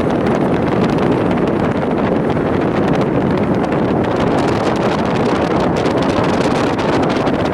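Wind buffeting the microphone over a steady rumble of a moving vehicle, as when filming from or beside a running train.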